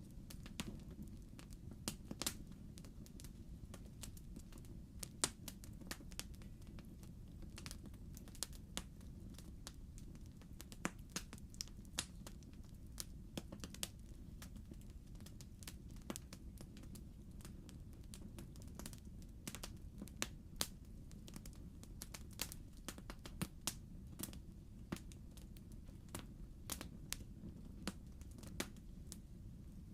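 Logs burning in a fireplace, crackling: irregular sharp pops and snaps over a steady low rumble of the fire.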